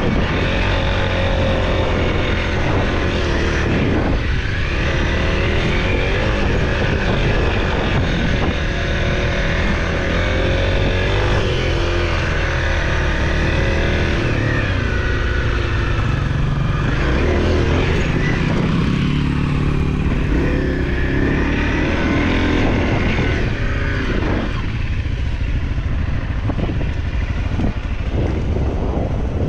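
Off-road motorcycle engine running and revving up and down, loud and steady throughout.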